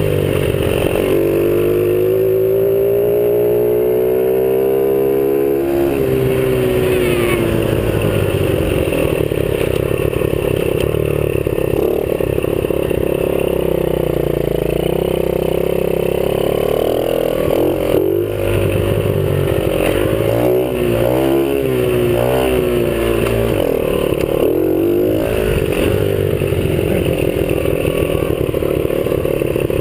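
50cc dirt bike engine running loudly under the rider. Its pitch climbs steadily a couple of seconds in and drops back, then rises and falls quickly several times about two-thirds of the way through as the throttle is worked.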